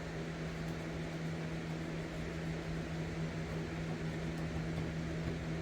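A machine running steadily, giving a constant low hum over an even hiss.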